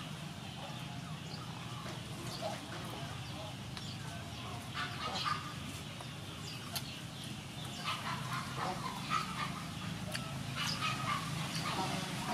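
Crunching bites and chewing of a crispy batter-fried chicken wing, many short sharp crackles, with brief high animal calls mixed in, mostly in the second half, over a steady low hum.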